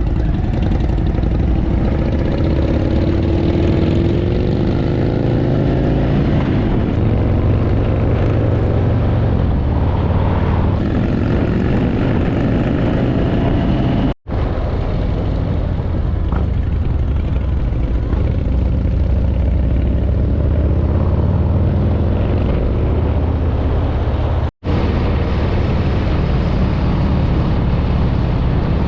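Harley-Davidson V-twin motorcycle engines running and accelerating, the pitch rising as they pull away in the first several seconds, then a steady drone. The sound cuts out abruptly for a moment twice.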